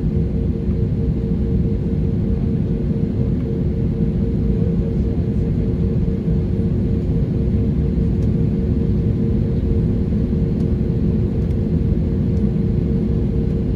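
Airliner engines running steadily: a dense low rumble with a constant hum on top.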